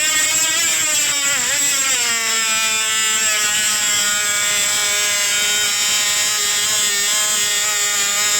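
A loud, buzzing tone with many overtones, played at a glass to try to break it. Its pitch wavers and dips in the first two seconds, then holds steady.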